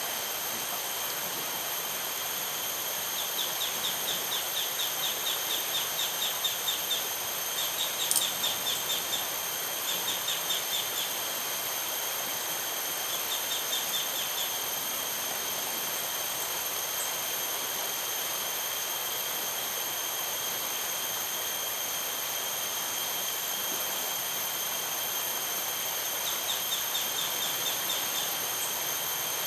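Insects at dusk: a continuous high-pitched drone with bouts of rapid chirping pulses every few seconds, over a steady hiss. One sharp click about eight seconds in.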